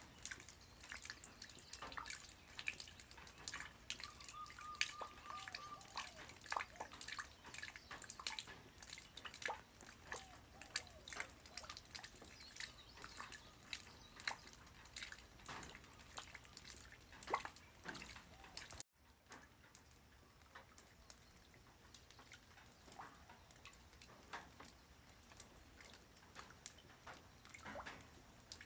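Light rain falling on the ground: irregular drops ticking and dripping over a faint hiss. About two-thirds of the way through the sound cuts out for an instant, and the drops come back sparser and quieter.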